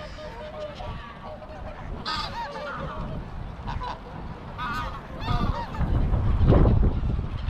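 Geese honking in a series of short calls, with wind buffeting the microphone in a low rumble, loudest in the second half.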